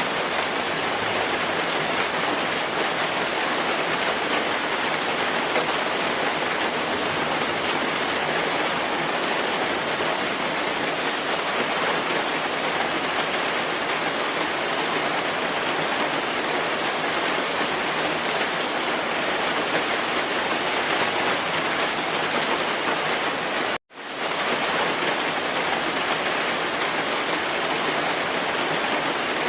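Steady rainfall: a continuous, even hiss of rain with no breaks except one sudden split-second dropout about three-quarters of the way through, after which it resumes unchanged.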